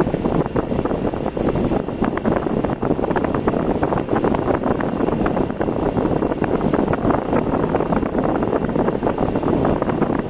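A car driving on a road: a steady rush of road and engine noise with wind buffeting the microphone, crackling throughout.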